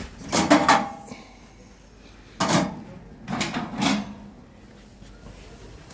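Bursts of knocking and rattling from objects being handled and moved: one about half a second in, one around two and a half seconds, and one from about three and a half to four seconds.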